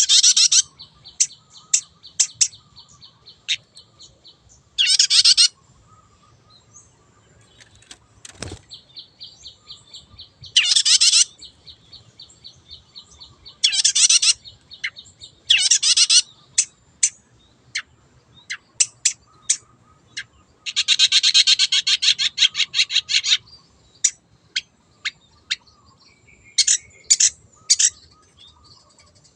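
Long-tailed shrike (cendet) singing: harsh, rasping bursts of about half a second, repeated several times, alternate with runs of a fast, high trill and sharp single chips. A longer harsh rattle of about two seconds comes about two-thirds of the way through.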